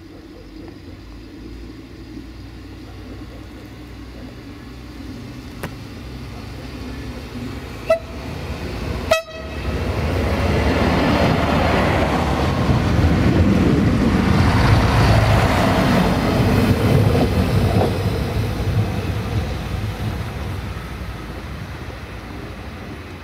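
Passenger train approaching with a building rumble, giving two short horn toots about a third of the way in, then passing close by with loud wheel and rail noise that peaks and fades as it pulls away.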